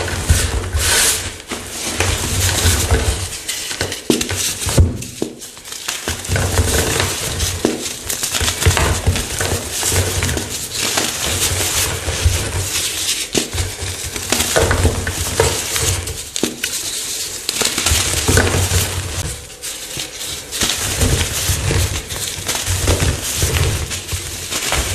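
Fresh chalk blocks being crushed, crunching and crumbling in repeated bouts of a second or two with short pauses between them.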